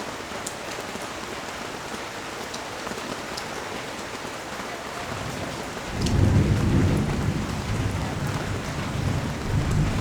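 Steady rain falling on the street and balcony, with scattered sharp drips. About six seconds in, a loud low rumble of thunder rolls in and keeps rumbling, swelling again near the end.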